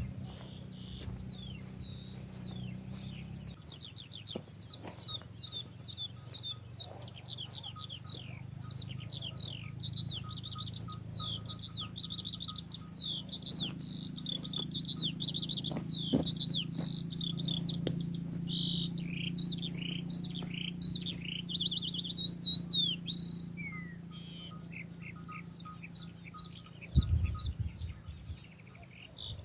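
Several songbirds chirping and singing together in a dense, continuous chorus of quick high chirps and trills, over a low steady rumble. A short low thump comes near the end.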